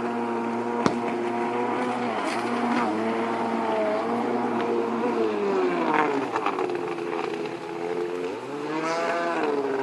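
Two-stroke 650 engine of a Kawasaki JS300 stand-up jet ski running with a custom exhaust pipe, its pitch falling back in the middle and climbing again near the end as the rider works the throttle. A single sharp click about a second in.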